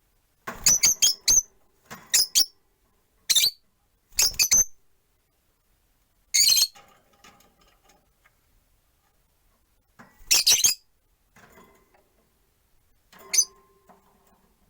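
Peach-faced lovebirds giving loud, shrill chirps in short bursts, several quick calls at a time, with a gap of a few seconds past the middle.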